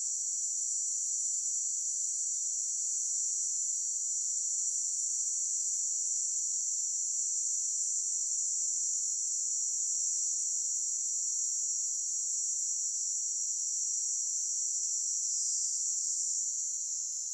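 Steady, high-pitched insect buzzing, one unbroken drone held at the same pitch and loudness, easing off slightly at the very end.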